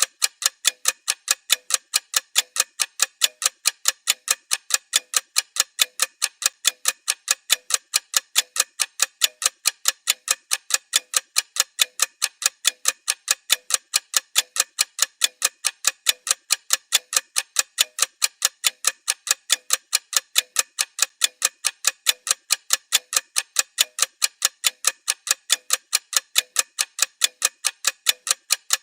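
Ticking-clock sound effect marking a rest-period countdown timer: even, sharp ticks at about four a second.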